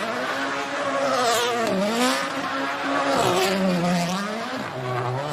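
High-performance car engine revving hard, its pitch climbing and then dropping sharply about every second and a half.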